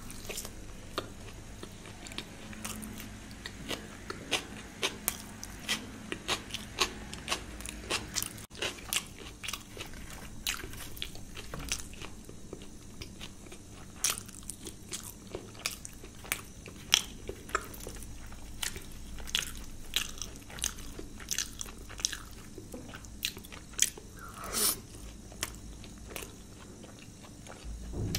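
Close-miked eating: a person chewing mouthfuls of luchi (deep-fried puri) dipped in paneer curry, with many sharp, irregular mouth clicks and bites.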